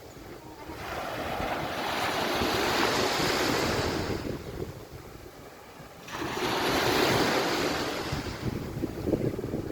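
Sea waves washing onto the beach in two swells, each building over a second or so and fading after a few seconds, with wind buffeting the microphone.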